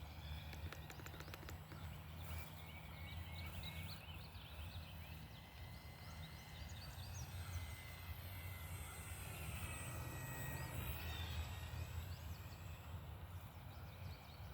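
Faint, steady whine of an RC plane's brushless electric motor and propeller, the Hobbyzone Carbon Cub S2 on a 3S battery, heard from the ground. It swells and shifts in pitch about three-quarters of the way through as the plane passes by.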